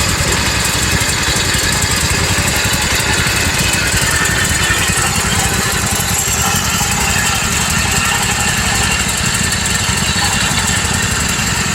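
Small single-cylinder garden tractor engines running at a steady idle, the nearest a 14-horsepower Kohler.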